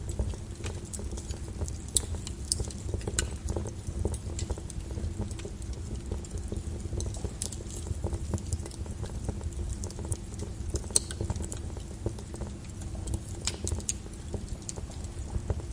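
Lava flow crackling and popping, with irregular sharp cracks and clinks over a steady low rumble.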